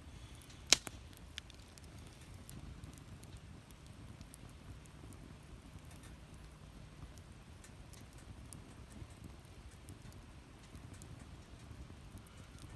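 Wood fire burning in a fire pit: a steady low rumble with scattered small crackles, and one sharp, loud pop under a second in.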